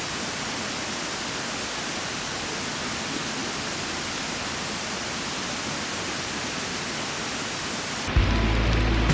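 Steady, even hissing noise. About eight seconds in, background music with a low bass line starts over it.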